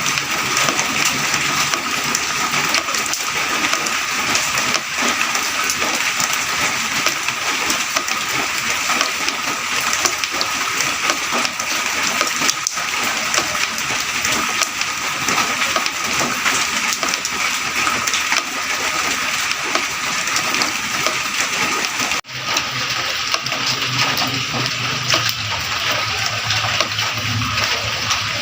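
Light rain falling in a steady patter of many small drops. About two-thirds of the way through the sound dips for a moment and comes back slightly duller.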